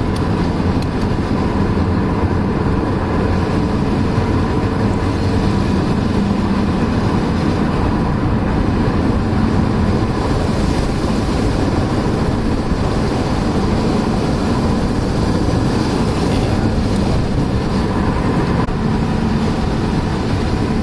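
A car driving, heard from inside the cabin: steady road, engine and wind noise.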